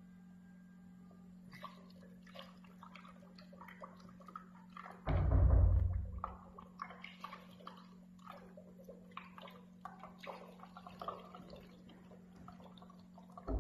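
Aloe gel and alcohol mixture being poured from a glass into a small container, dripping and plopping in small irregular splashes. There is a loud dull thump about five seconds in, over a steady low hum.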